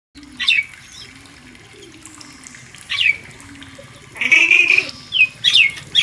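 Wild birds calling: short sharp chirps that sweep downward, spaced a few seconds apart, and one longer, louder call a little past the middle. A faint low, wavering call runs underneath.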